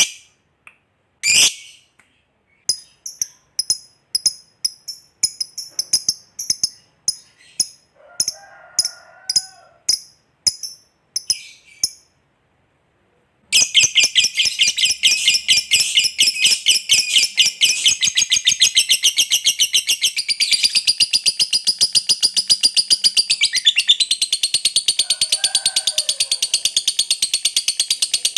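Lovebird calling: first a string of short, high chirps, then after a brief silence about halfway in, a long unbroken trill of very rapid high chattering notes, the 'ngekek' call.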